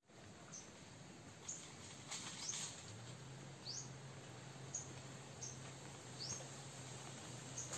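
Birds giving short, high, rising chirps, about one a second, faint against quiet woodland ambience.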